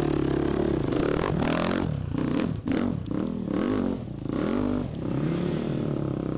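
Dirt bike engine revving hard in repeated rising and falling bursts, with clattering and scraping mixed in, as an enduro motorcycle fights for grip on a steep, rocky hill climb.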